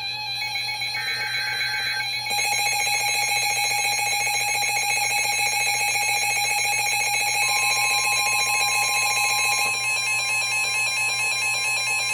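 NOAA Weather Radio alert for a severe thunderstorm warning. A last short burst of the screeching digital header ends about 2 seconds in. Then the weather radio's alarm sounds, a loud, rapidly pulsing electronic tone, and the steady single warning tone joins it about halfway through.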